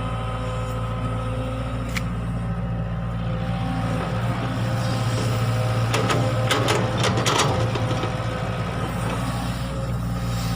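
Excavator's diesel engine running steadily, working harder from about four seconds in, with a cluster of sharp metallic knocks and clanks around six to seven seconds in.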